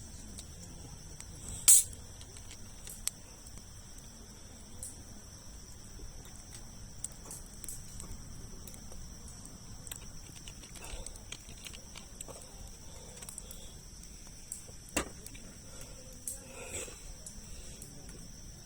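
Wood campfire of large logs crackling, with scattered pops and one sharp loud crack about two seconds in. A steady high insect trill, like crickets, runs underneath.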